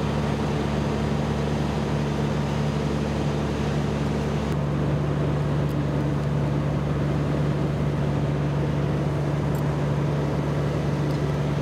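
An engine idling with a steady low hum; its tone shifts slightly about four and a half seconds in.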